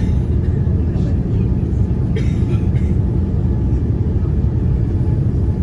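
Steady low rumble inside the cabin of a Boeing 787-9 with GEnx engines, rolling on the ground after landing.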